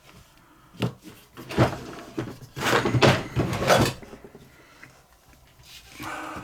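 Knocks and clatter of small objects being handled and set down on a desk: a couple of single knocks, then a busier run of clatter and rustling in the middle.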